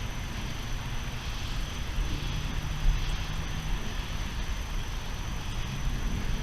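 Steady thunderstorm noise: rain and a low rumble with a faint steady high tone above it, and no distinct thunderclap.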